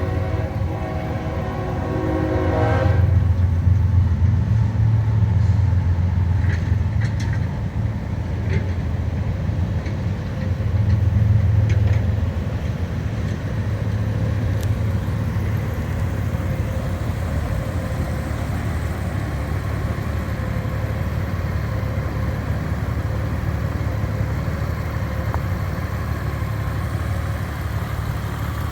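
Honda Gold Wing's 1833 cc flat-six engine running at idle, a steady low rumble that swells twice with light blips of the throttle, about three seconds in and again about eleven seconds in.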